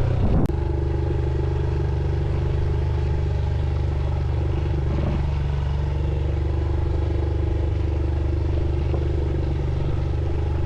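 Motorcycle engine running steadily at an even speed, with a sharp click about half a second in.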